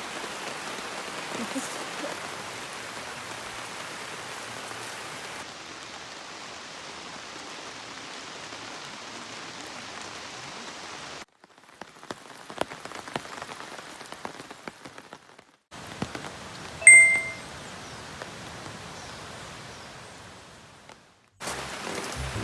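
Steady rain falling, an even hiss, with scattered faint drop clicks and a few brief breaks where the sound cuts out. About seventeen seconds in, a single short metallic ding rings out, the loudest sound.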